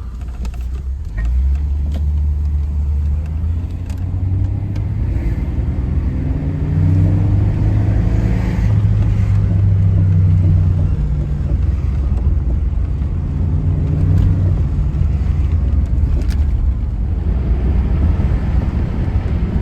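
A 1989 Ford Thunderbird's engine running as the car drives off on a test drive after a transmission service: a steady low rumble that rises in pitch as it accelerates about six seconds in and again around thirteen seconds.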